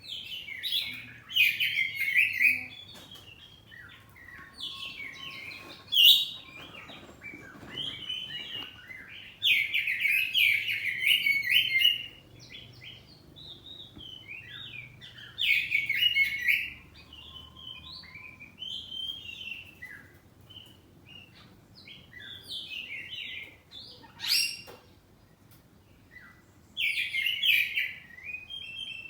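Oriental magpie-robin (kacer poci) singing freely in bursts of varied, rapid whistled phrases. Loud song phrases alternate with quieter answering phrases, as in a call-and-response between birds.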